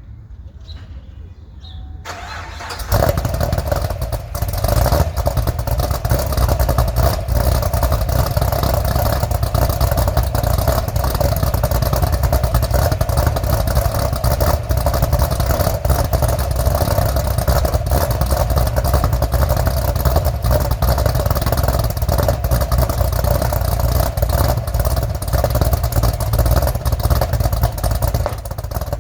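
Chevrolet Camaro SS V8, fitted with a GPI SS3 aftermarket camshaft, cold-started: a couple of seconds of cranking, then it catches about three seconds in and settles into a steady cold fast idle.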